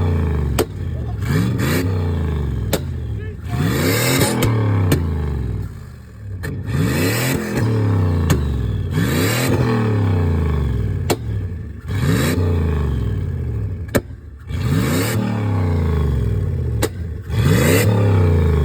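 Turbocharged Dodge pickup engine revved hard again and again, each rev climbing quickly and then falling off, about every two and a half seconds. A few sharp clicks sound between the revs.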